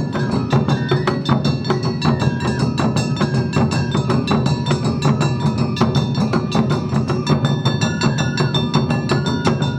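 Awa Odori festival band playing the dance music live: a fast, steady beat of taiko drums and struck kane gongs, with a melody line stepping up and down over it.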